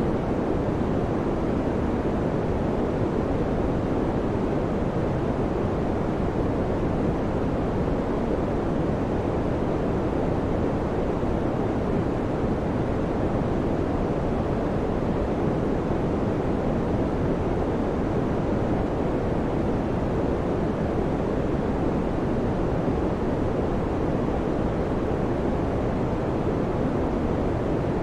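Electric fan running at a constant speed: a low, steady rushing of air that never changes.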